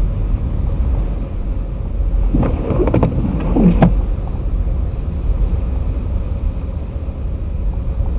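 Car driving on a snowy plowed road, heard inside the cabin as a steady low rumble of road and engine noise. About two seconds in there is a brief sound with a wavering pitch that lasts under two seconds.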